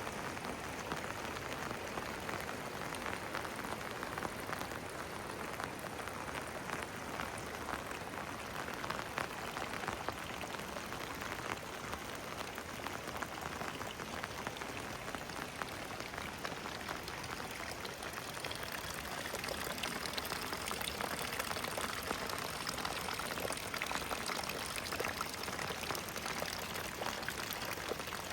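Steady rain falling, a dense patter of drops, with water pouring or splashing nearby that grows a little louder in the second half.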